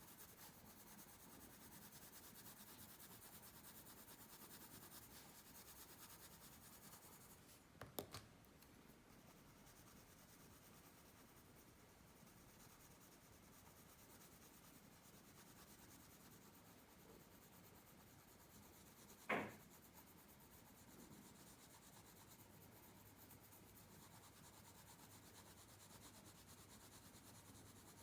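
Faint pencil scratching and rubbing on paper as a drawing is sketched, with two short sharp knocks, one about eight seconds in and a louder one near twenty seconds.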